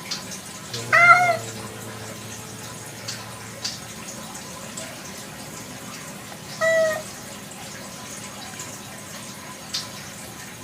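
A village cat meowing twice: a louder call about a second in, with its pitch rising and falling, and a shorter one at about seven seconds.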